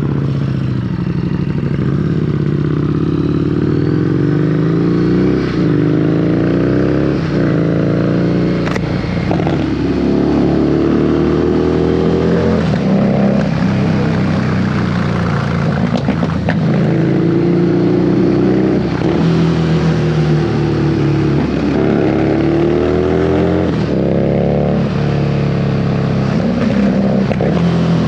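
Harley-Davidson Street Rod 750's V-twin engine pulling under throttle. Its pitch climbs steadily and drops back sharply, over and over.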